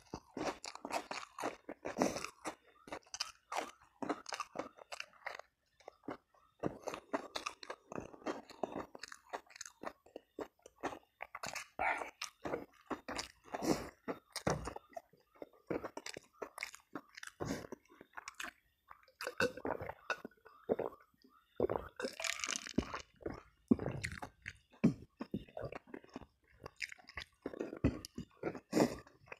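A person chewing and biting crunchy food close to the microphone: dense, irregular crunches with short pauses between mouthfuls.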